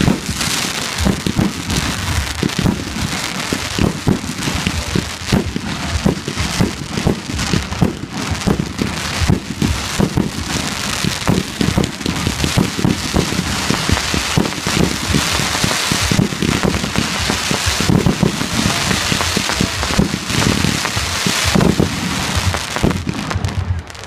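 Fireworks display: a dense, continuous crackle of many small pops from a fireworks barrage, easing off near the end.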